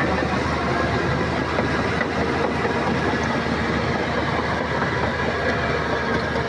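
Crawler bulldozer at work: a steady diesel engine under a dense, rapid clatter of steel tracks.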